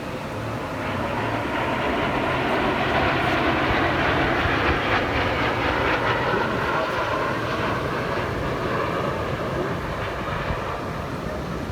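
An aircraft flying past, its engine roar swelling over a few seconds and then slowly fading away.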